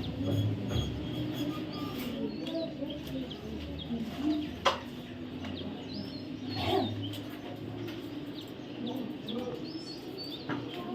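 Baby parrot making short, scattered high chirps. There is a sharp click about five seconds in.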